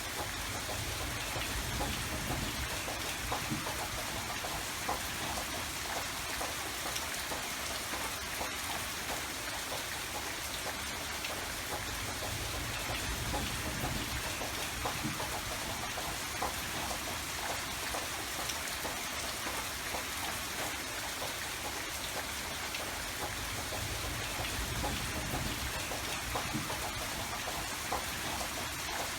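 Steady rain falling, with many small drop ticks over an even hiss and a low rumble that swells and fades a few times.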